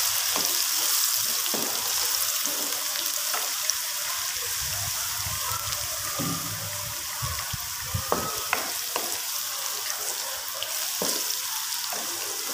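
Chopped onions and garlic paste sizzling steadily in hot oil in a wok as they brown, with a wooden spoon now and then scraping and knocking against the pan as they are stirred.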